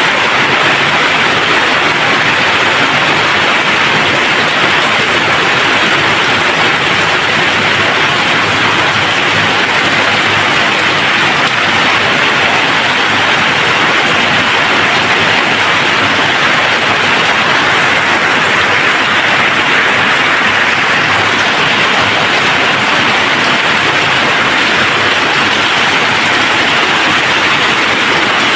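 Steady, even rain falling, a continuous hiss of drops without thunder or breaks.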